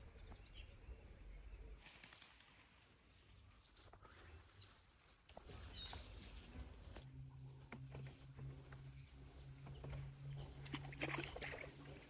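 Faint outdoor ambience with bird calls, including a burst of high chirping about six seconds in. A low steady hum starts about seven seconds in.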